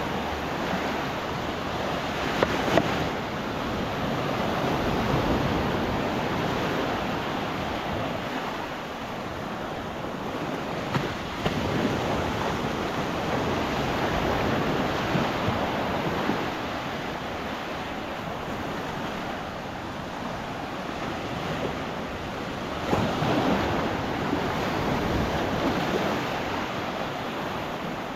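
Gulf of Mexico surf: small waves breaking and washing up onto the sand, swelling and easing in slow surges every several seconds, with some wind on the microphone.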